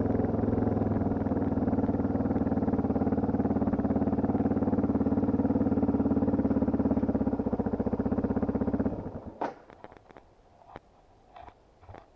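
Dirt bike engine running at a steady idle, then cutting out about nine seconds in. A knock comes just after, followed by scattered faint clicks and knocks.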